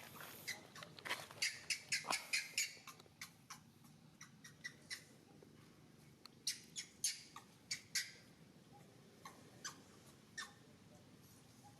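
Young monkey giving a run of short, high-pitched squeaks, with a fast cluster in the first few seconds and another a few seconds later.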